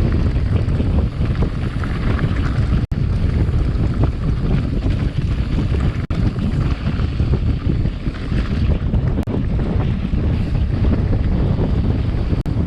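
Wind buffeting a GoPro microphone during a fast mountain-bike descent, a steady low rumble of rushing air and trail noise. The sound cuts out for an instant three times.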